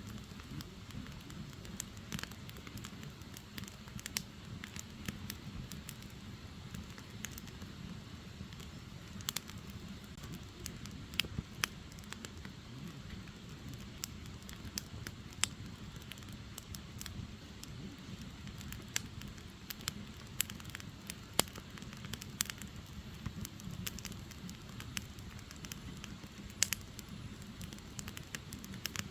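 Firewood burning in an open fire, crackling with many irregular sharp pops and snaps over a steady low flutter of the flames.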